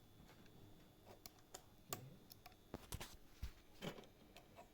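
Faint, irregular small clicks and taps, about a dozen, of repair tools handling a phone's parts and battery connector.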